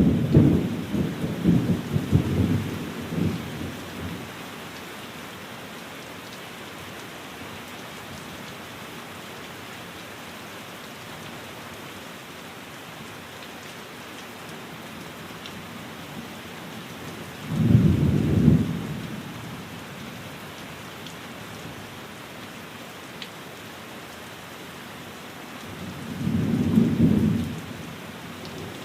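Steady rain falling, with three low rumbles of thunder: one rolling through the first few seconds, one about eighteen seconds in, and one near the end.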